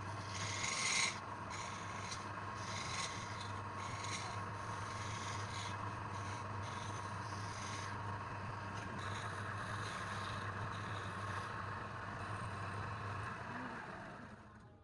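Wood lathe running with a steady motor hum while the spinning wood is scraped in repeated strokes. The hum stops about thirteen seconds in and the sound dies away.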